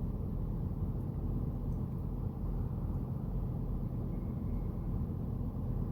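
Steady low rumble of a semi truck, heard inside its cab.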